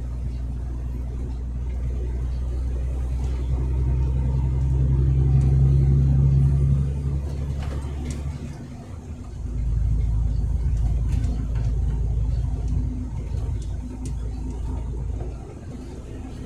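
Truck engine running under load, growing louder over the first several seconds, then dropping away briefly just past halfway and picking up again.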